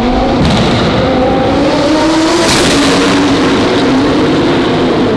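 Twin-turbo Lamborghini Huracán's V10 running hard at high revs, its pitch climbing slowly, with a sharp hissing rush about two and a half seconds in.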